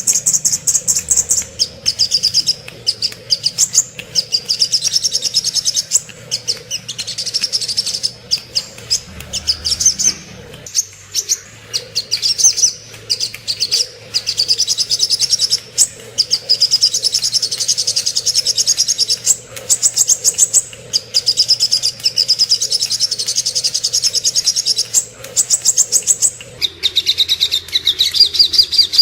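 Spiderhunter (sogok ontong) singing: rapid, high-pitched chattering trills in long runs broken by brief pauses. Near the end the song shifts a little lower in pitch.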